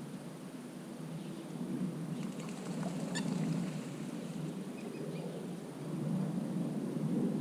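Lakeside wetland ambience: a low rushing background that swells and fades, with a short bird call about three seconds in and a few faint chirps later.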